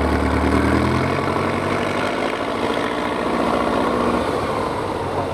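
Heavy truck engine running, its pitch rising slightly in the first second and then holding steady.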